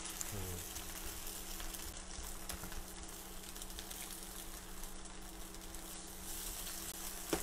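Faint sizzling of fried rice, bean sprouts and egg white frying in a nonstick wok as they are stirred with a silicone spatula. A steady low hum runs underneath.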